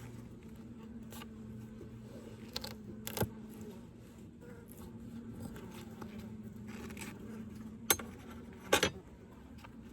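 Wooden hive frames and equipment knocking and clicking as they are handled, with a sharp click about three seconds in and two louder knocks near the end, over a steady low hum of honeybees.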